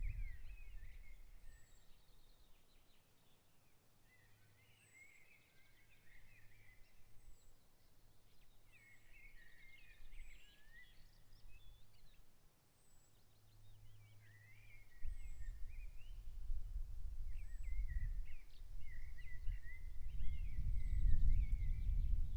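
Songbirds singing in the open countryside: one bird repeats a warbling phrase of a second or two every few seconds, while another gives a thin, very high note at intervals. A low rumble fades out at the start and builds again about two-thirds of the way through.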